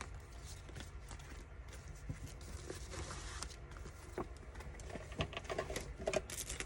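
Paper and small craft supplies handled on a tabletop: light rustling with scattered small clicks and taps, over a steady low hum.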